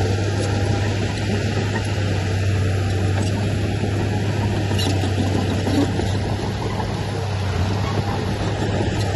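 Diesel engine of heavy earth-moving machinery running steadily, a continuous low drone.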